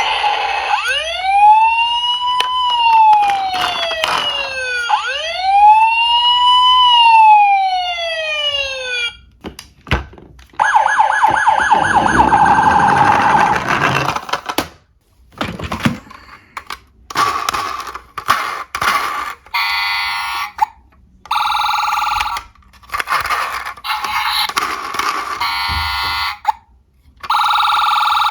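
Electronic police-siren sounds: a wail that rises and falls slowly twice, then a fast warbling tone, then a series of short buzzing electronic alarm bursts broken by clicks.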